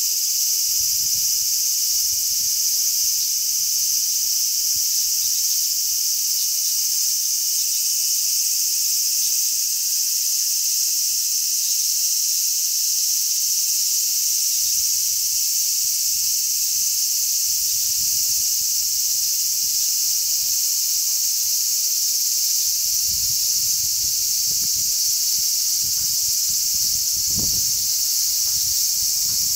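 A chorus of many large brown cicadas (Graptopsaltria nigrofuscata) calling together in a continuous, steady sizzle. Sea-breeze gusts buffet the microphone as low rumbles, stronger near the end.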